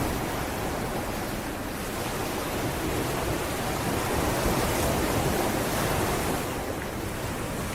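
Sea waves washing onto a beach as a steady rush that swells and eases off slightly, with some wind on the microphone.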